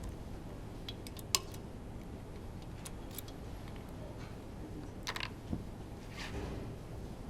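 Scattered light metal clicks and clinks of tools and parts being handled while a Honda V10 Formula 1 engine is disassembled, with one sharper click about a second and a half in and a short scrape near the end, over a low steady hum.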